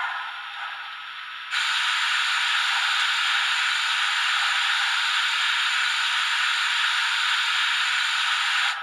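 Bachmann EM-1 N scale steam locomotive's Soundtraxx economy sound decoder playing a steam hiss effect. A faint hiss turns about a second and a half in into a loud, steady hiss that holds for about seven seconds, then drops away near the end.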